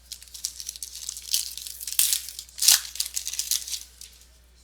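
A baseball card pack wrapper being torn open and crinkled by hand, in a run of crackly rustles with one louder rip a little past halfway.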